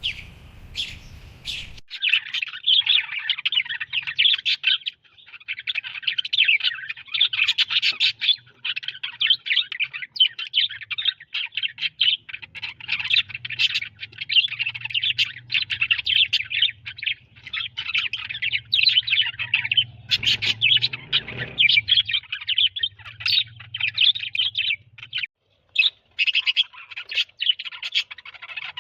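Pet parakeet chattering and warbling in a fast, nearly unbroken stream of high chirps, with only brief pauses.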